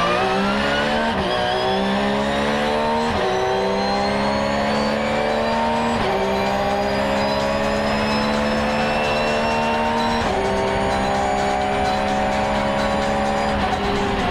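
Car engine accelerating hard through the gears: its pitch climbs in each gear and drops sharply at each of five upshifts.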